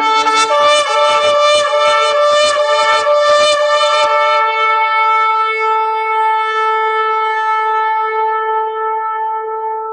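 Shofar blast: a brief low note leaps up to a high note that wavers in quick pulses, about three a second, for some four seconds, then is held steady as one long call.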